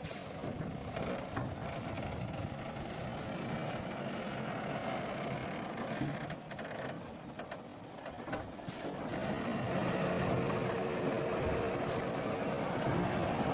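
Diesel engine of heavy earthmoving machinery running steadily and growing louder about two-thirds of the way through, with a few brief high clinks.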